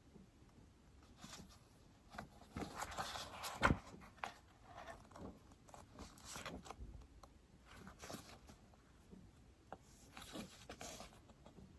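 Stylus writing and tapping on an iPad screen: scattered light taps with a few short scratchy strokes, and one sharper tap about three and a half seconds in.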